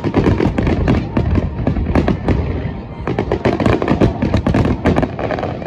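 Firework display finale: a barrage of aerial shells bursting in rapid succession, loud overlapping bangs several times a second.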